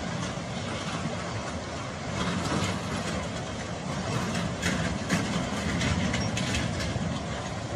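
Steady motor-vehicle engine and road rumble, with a few short sharp knocks or clicks a little past halfway.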